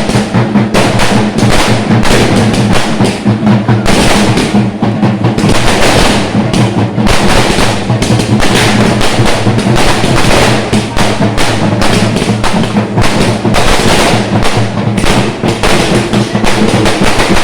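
Loud, fast festival drumming from a chenda ensemble, beaten in dense, rapid strokes without a break, over a steady low tone.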